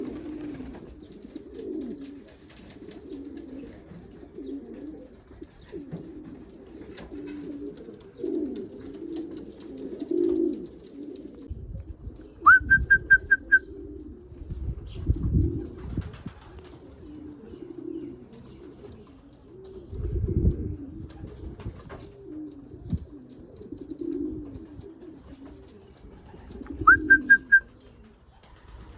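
Racing pigeons cooing continuously. Twice, about halfway through and again near the end, there is a short, loud burst of about five rapid high chirps.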